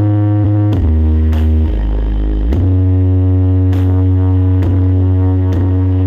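Electronic jingle music played very loud on a large sound system. It is carried by long, heavy bass notes that change pitch every one to two seconds, with sharp hits between them.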